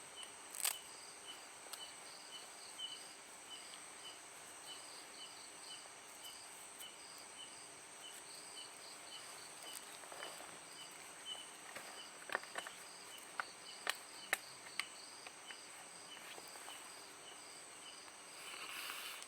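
Night insects chirping steadily: a short chirp repeats about twice a second over a continuous high buzz. A few sharp clicks stand out, most of them in the middle stretch.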